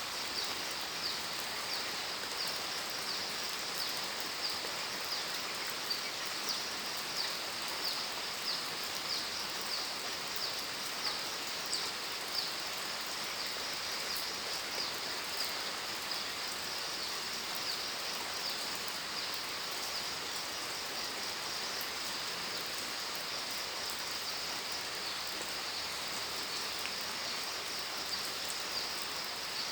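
Steady rain falling. A constant high-pitched chirping runs over it in quick pulses, busiest in the first half.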